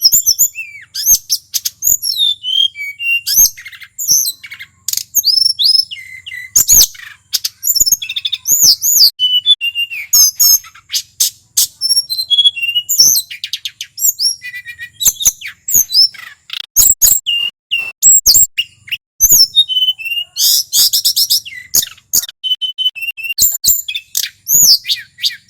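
Male tledekan gunung singing continuously: rapid, varied phrases of high swooping whistles, chips and arching notes, with a fast trill a little past the middle.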